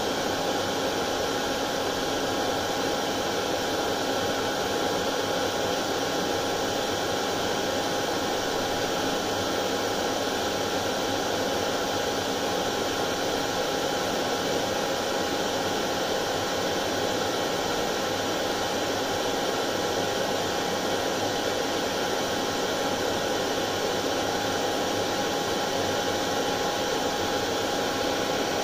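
Hair dryer running continuously with a steady whooshing rush of air and a faint steady motor hum, without change.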